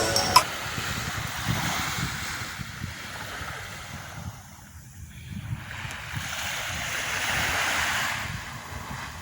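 Surf washing up on the beach in two swells of noise a few seconds apart, with wind buffeting the microphone.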